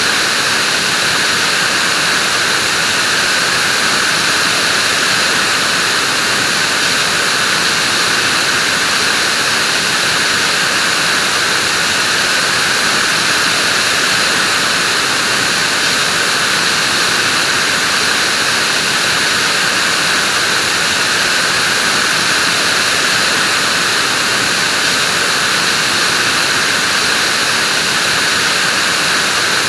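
Vacuum cleaner running at a constant speed, a dense, steady hiss and whir with no change in level.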